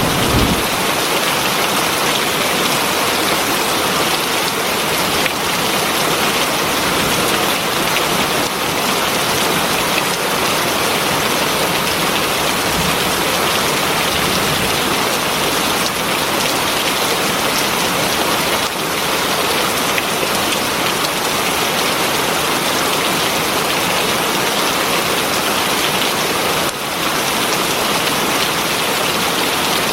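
Heavy rain falling steadily: an even, unbroken hiss of drops landing on a surface.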